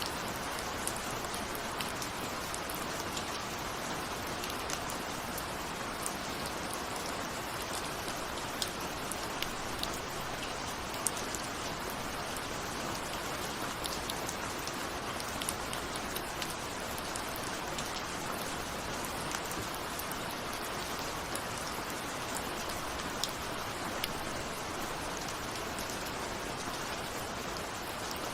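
Steady rain with individual raindrops ticking against a window pane, a constant hiss dotted with sharp drop hits. No thunder.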